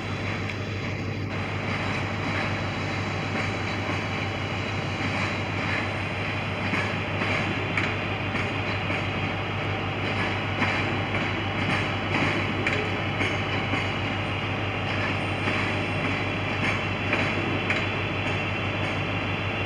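West Midlands Railway Class 323 electric multiple unit running slowly along the platform as it arrives, a steady rumble and hum. Its wheels click over the rail joints from about six seconds in.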